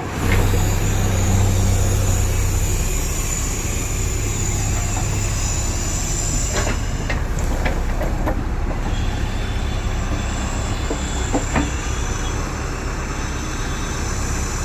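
A machine running steadily with a low hum and a high whine, and several sharp metallic clicks and knocks about halfway through and again a little later.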